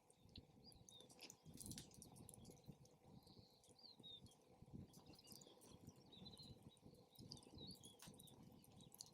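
Faint wood fire crackling with scattered small pops, over a low, shifting rumble of wind, with small birds chirping in the background.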